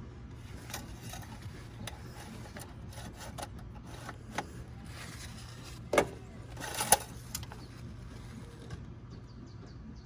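Hands working in an engine bay while the oil level is checked: scattered light clicks and rubbing, with two sharp clicks and a brief scrape about six and seven seconds in, over a steady low hum.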